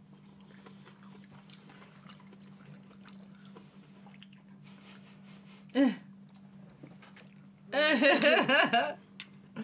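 Quiet chewing of cherries with faint mouth clicks, a short vocal sound about six seconds in, then a second or so of laughter near the end.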